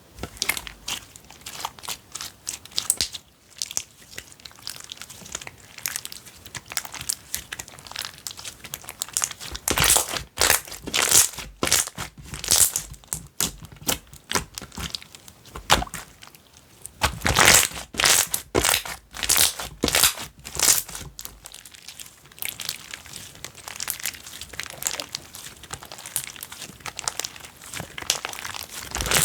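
Slime being squeezed, stretched and pressed by hand, making dense, irregular clicking and crackling sounds from air pockets popping, busiest about a third of the way in and again past the middle.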